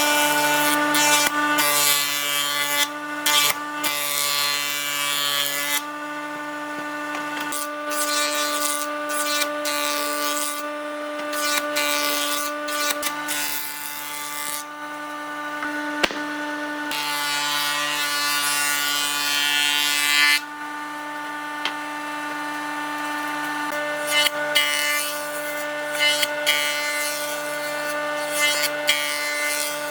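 An electric power tool running with a steady hum, working into wood in noisy stretches of a few seconds each. The sound shifts abruptly several times.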